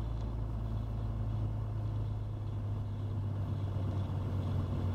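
Dodge pickup's 5.9 Cummins inline-six turbo diesel heard from inside the cab, a steady low drone as it lugs at about 750 RPM in top gear pulling up a steep hill.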